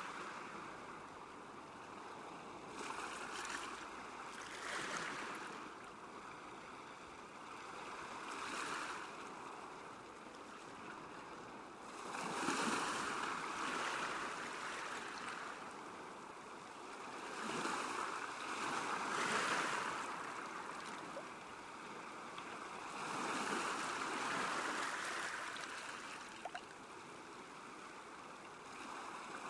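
Small waves lapping on a lakeshore: a steady wash of water that swells and ebbs every few seconds, with a few louder surges.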